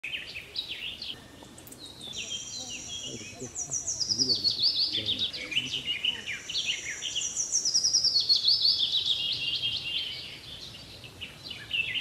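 A songbird singing two long phrases of rapid trilling notes, each starting high and falling in pitch, with a few scattered chirps before them.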